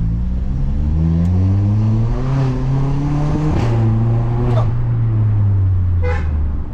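Tuned 1.2 TSI four-cylinder turbo engine with a full-system exhaust accelerating hard, revs rising steadily for about three and a half seconds. A gear change follows with a couple of sharp cracks, then the revs hold and slowly fall as the throttle eases off.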